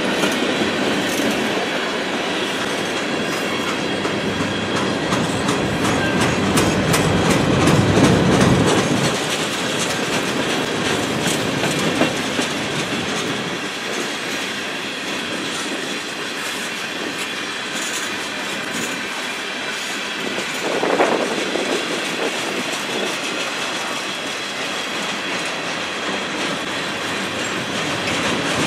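Freight cars of a manifest train rolling past: steady wheel-on-rail rumble with repeated clicking as wheels cross rail joints. It swells louder around eight seconds in and surges briefly a little after twenty seconds.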